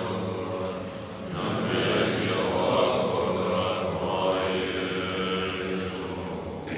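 Group of voices chanting Tibetan Buddhist liturgy in unison, a steady recitation on sustained pitches.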